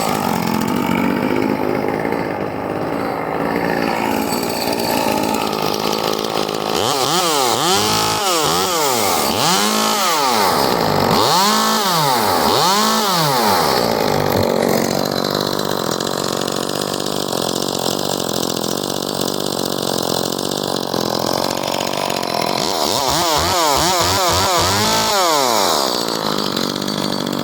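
Echo 2511T two-stroke top-handle chainsaw, fitted with an aftermarket West Coast Saws muffler, running and being revved up and back down repeatedly. There are four quick revs about a third of the way in, then steady running, then another run of revs near the end.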